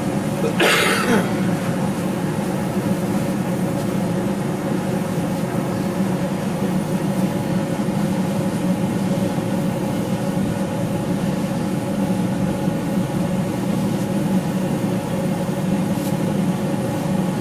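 Steady machine drone with a low hum, with a brief hissing burst about a second in.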